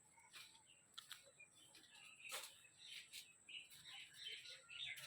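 Parrot giving faint, short scattered chirps, getting busier about halfway through.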